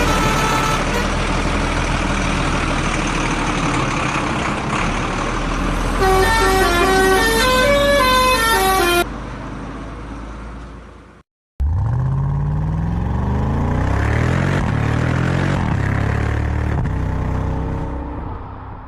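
A truck engine running, then a musical horn playing a short tune of stepping notes. After a brief cut the engine revs up, its pitch rising steadily, and fades out near the end.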